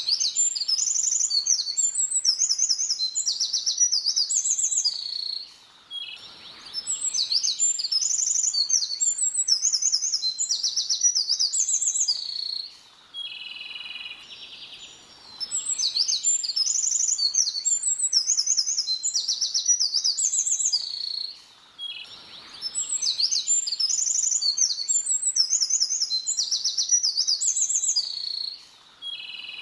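A small songbird singing the same loud song over and over: phrases of rapid, high notes lasting about five seconds. Each phrase is followed by a couple of seconds of quieter, lower chirping before the next begins.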